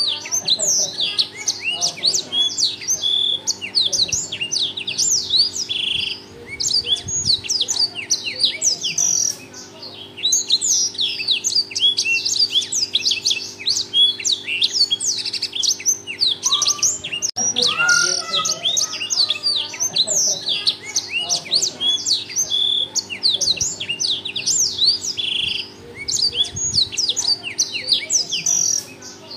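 Black-throated canary singing loudly and without let-up: a fast, continuous stream of quick high chirps and trills, pausing only briefly a few times. A faint steady hum lies underneath.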